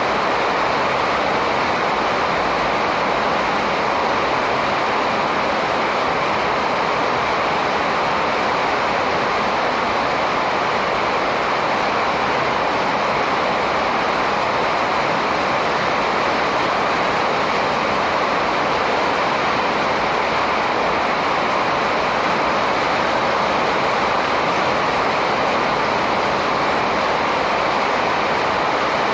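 Steady rushing noise with no breaks or changes in level.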